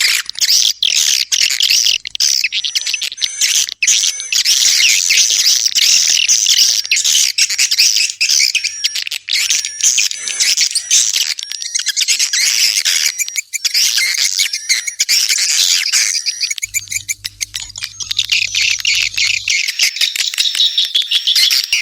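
Edible-nest swiftlets twittering in a dense, continuous chorus of high chirps, with many rapid sharp clicks mixed in: a swiftlet call recording of the kind played to lure swiftlets into a nesting house.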